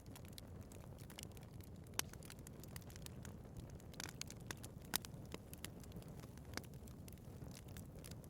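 Wood fire burning in a fireplace: a steady low rumble of flames with scattered sharp crackles and pops, the loudest about two and five seconds in.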